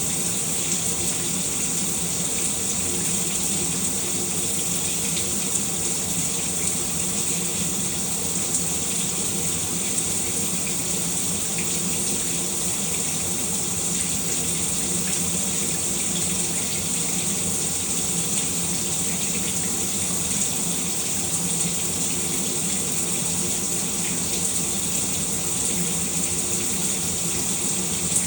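Shower running steadily: water spraying and splashing in an even, unbroken hiss.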